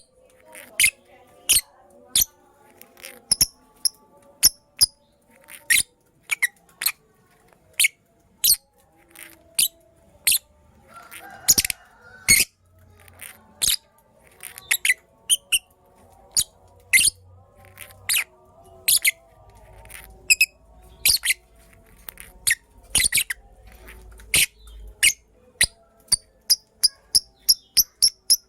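Lovebirds giving short, sharp, high-pitched chirps, irregularly about one or two a second, now and then in quick runs of several.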